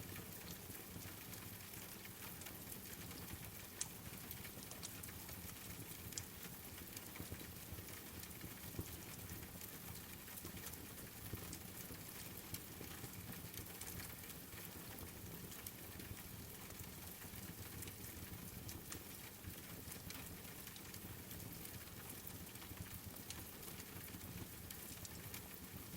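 Steady rain together with a crackling wood fire: an even hiss sprinkled with small pops and snaps.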